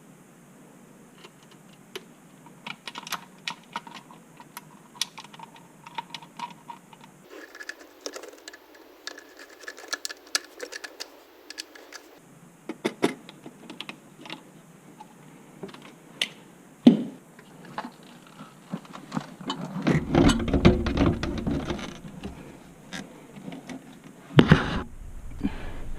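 Irregular light clicks and taps of tools and parts being handled, with a louder, lower noisy stretch of a couple of seconds about three quarters through and a sharp knock near the end.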